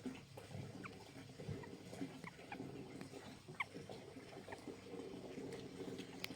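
White-browed laughingthrush giving short, high, squeaky call notes at irregular intervals, flock-calling notes, faint over a steady low background hum.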